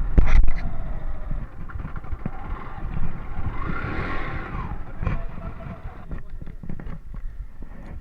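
Yamaha FZ motorcycle running on the move, with wind buffeting the microphone and a low rumble. The sound swells in the middle and grows quieter after about six seconds.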